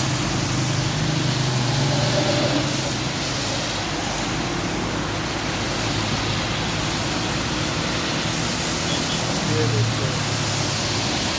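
Steady heavy rain falling, a dense even hiss. A low hum swells near the start and again near the end.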